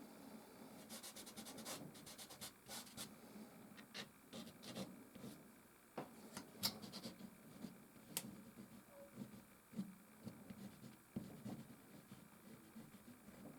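Soft pastel stick scratching and rubbing across canvas in short, irregular strokes, with a few sharp ticks among them.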